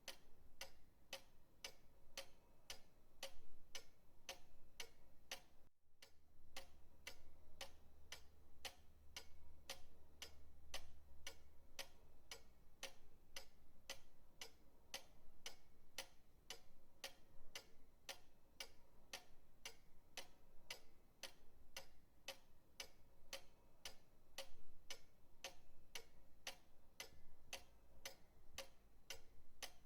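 Pendulum clock ticking steadily, about two ticks a second, with a very short break about six seconds in.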